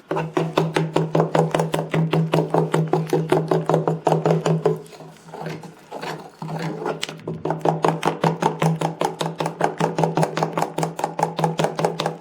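Batter being stirred hard by hand in a bowl: fast, even strokes of the utensil, about five or six a second, over a steady ringing hum, with a short pause about halfway through.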